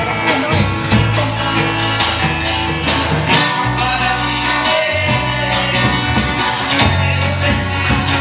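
A band playing a song at rehearsal, with singing over guitar and a bass line whose notes change about once a second.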